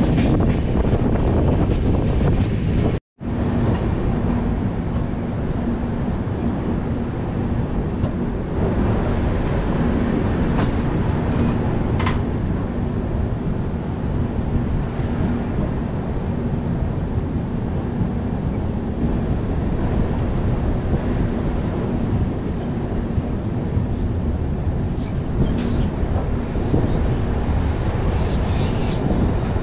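Running noise of a moving passenger express heard from on board: a steady rumble of wheels on the track with a faint steady hum. The sound drops out for an instant about three seconds in.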